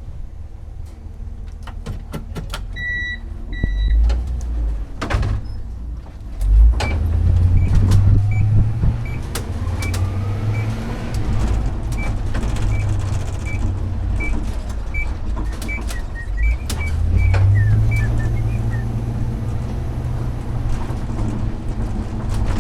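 Truck engine and road noise heard from inside the cab while driving, a steady low rumble that grows louder about six seconds in. A short two-part electronic beep sounds a few seconds in. Then a turn-signal indicator ticks steadily, about one and a half ticks a second, for some twelve seconds.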